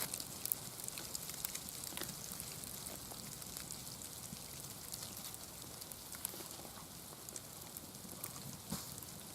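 Light rain pattering, with many scattered faint ticks over a steady hiss.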